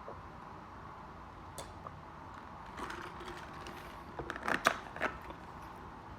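Plastic water bottle handled and its cap twisted off, giving a cluster of sharp crackles and clicks from about halfway through, over a steady low hum.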